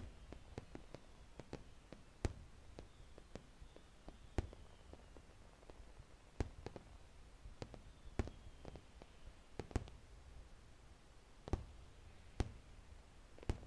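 Far-off aerial fireworks bursting: a string of irregular sharp pops and bangs, the strongest coming about every one to two seconds.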